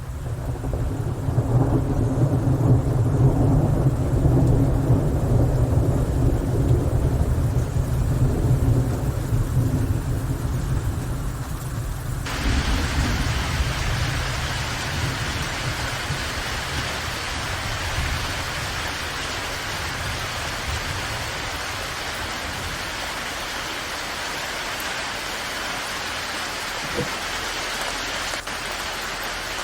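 Thunderstorm: a long, deep rumble of thunder over falling rain, then about twelve seconds in the sound switches suddenly to a steady hiss of heavy rain.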